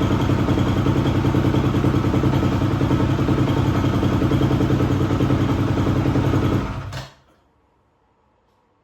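A 2004 250R four-stroke single-cylinder dirt bike engine idling steadily, newly running after its too-tight valves were adjusted. It stops about seven seconds in.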